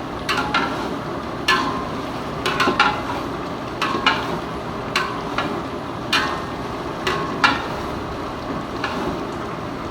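Metal spoon scraping and knocking against a pot, about once a second, as chicken gizzards are stirred while they fry, over a steady frying sizzle. The gizzards are being fried until their water cooks off.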